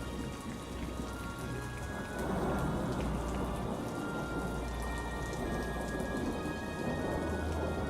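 Steady rain with a low rumble of thunder that swells about two seconds in and again near the end. Faint sustained music tones sit underneath.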